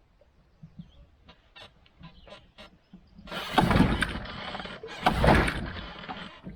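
Small Tohatsu gas outboard being pull-started: a few light clicks, then two hard pulls on the recoil starter about a second and a half apart. The engine fails to catch, the hard-starting trouble of a small gas outboard.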